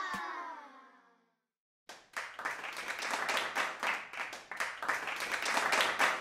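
The last notes of a music track ring out and fade away within the first second. After a second of silence, a dense patter of clapping and applause begins and keeps going.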